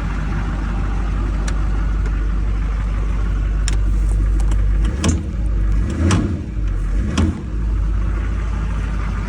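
2005 Duramax LLY 6.6-litre turbo-diesel V8 running steadily, with a few sharp clicks and brief dips and swells in the sound about five to seven seconds in. It is running on a tune with the anti-theft (VATS/PASSLOCK) disabled and idle fuel raised, which the owner thinks might be running a little bit fat.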